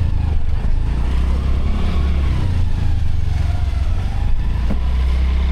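Motorcycle running at riding speed, its engine under a steady heavy low rumble of wind on the microphone.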